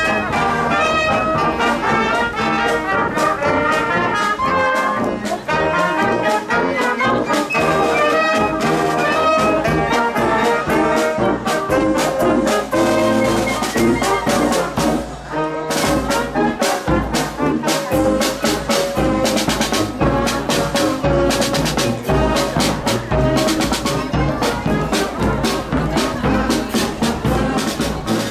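Marching brass band playing a tune, with trumpets and trombones carrying the melody; steady drum beats grow stronger about halfway through.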